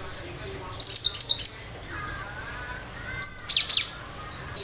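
Cinereous tit (gelatik batu) singing loud, sharp high phrases: two bursts of rapid piercing notes, about a second in and again past three seconds. Faint lower chirping runs underneath.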